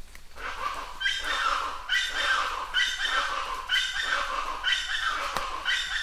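A bird calling over and over, about once a second: each call is a harsh, sharp-starting note that falls in pitch. Rain hisses faintly underneath.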